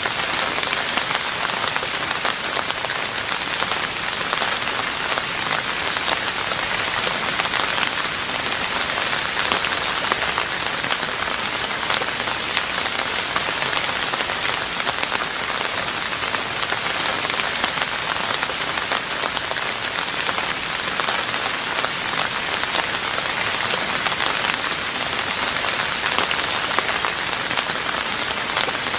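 Steady rain falling on a roof: a dense, even patter of many drops with no let-up.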